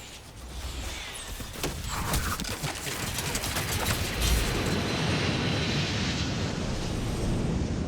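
Cinematic sound effects: a rapid volley of sharp cracks, like gunfire, over a deep rumble, swelling a few seconds in into a sustained roaring rumble with a hiss on top.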